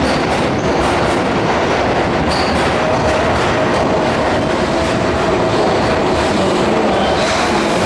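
Keihan electric train running through an underground station, a steady loud rumble with wheels clattering over rail joints.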